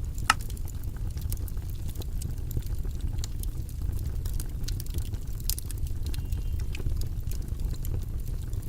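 Steady low-pitched white-noise bed, weighted toward the bass, with scattered light clicks and taps over it and one sharper click about a third of a second in.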